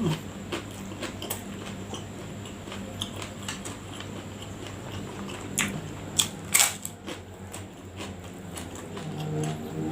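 Close-miked eating sounds: chewing and biting with scattered small clicks, and a few louder sharp clicks a little past halfway. A low droning hum comes in near the end.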